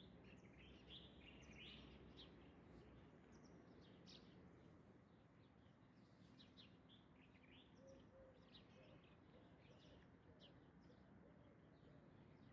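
Faint birds chirping, many short high calls throughout, over a quiet background hiss.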